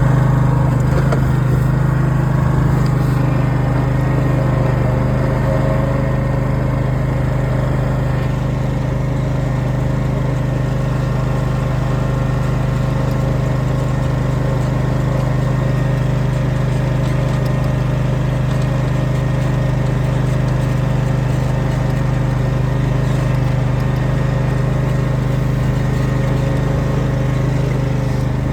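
Engine of a Husqvarna R316TsX AWD ride-on mower running at a steady speed, a constant low hum that does not change.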